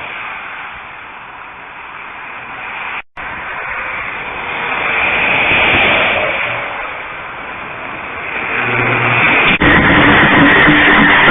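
Car engine and road noise picked up by a dashcam microphone, swelling and easing, with two abrupt cuts where one clip gives way to the next.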